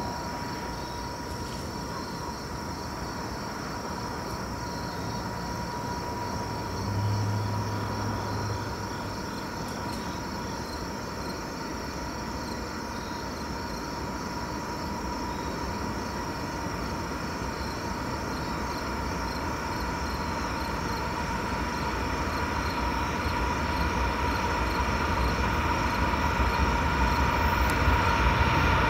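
Norfolk Southern diesel freight locomotives hauling a double-stack container train approach, their engines and the train growing steadily louder over the half minute, with a steady high-pitched tone running underneath.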